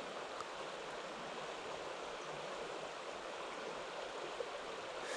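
Mountain stream running low, a steady even rush of water.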